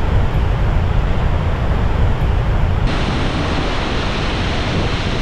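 Thunder of Victoria Falls: a loud, steady rush and rumble of falling water, heaviest in the low end. About three seconds in, the hiss turns brighter.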